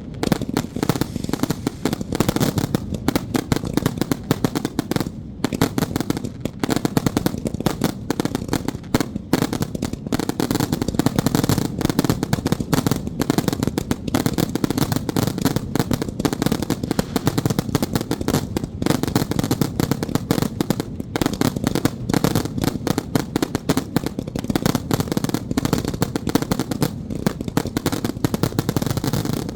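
A long string of firecrackers going off in a rapid, unbroken run of sharp bangs, like machine-gun fire.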